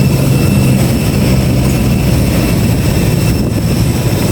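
Airliner engine noise on the apron: a loud, steady low hum with a thin high whine over it.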